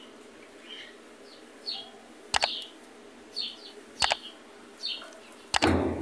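A small bird chirping repeatedly, short high chirps. Three sharp double clicks, about two, four and five and a half seconds in, as the top-load washer's lid is handled and lifted open.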